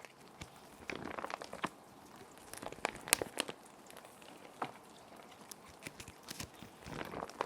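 Plastic sheet protectors crinkling and rustling in short clusters as paper is handled and slid into them, over a soft, steady rain bed.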